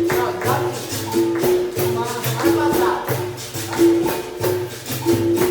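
Capoeira instruments playing a steady rhythm: the berimbau's twanged notes repeat with caxixi shakes and pandeiro jingles.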